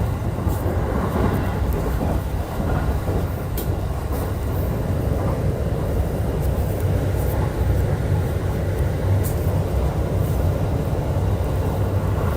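E531 series electric multiple unit running at speed, heard from inside the car. A steady low rumble of wheels on rail carries faint even motor tones and a few sharp ticks.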